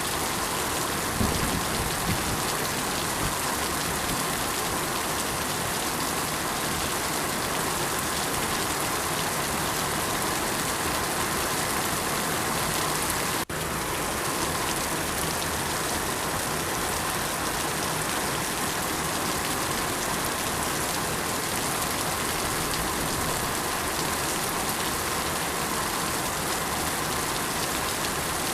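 Steady rain falling, a dense even patter of drops. There is a brief low thump about a second in, and the sound cuts out for an instant about halfway through.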